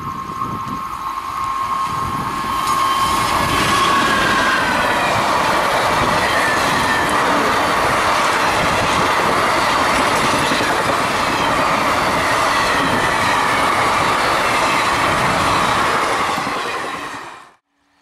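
Express train passing at speed, hauled by a WAP-4 electric locomotive: a steady whine at first, then the loud, continuous rush and clatter of the passenger coaches' wheels on the rails, which cuts off suddenly near the end.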